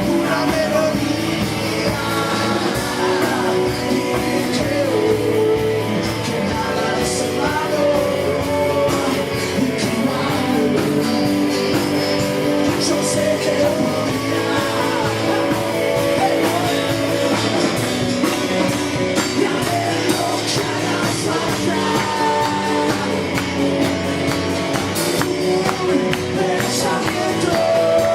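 Live band playing a song, with singing over guitar and a steady beat.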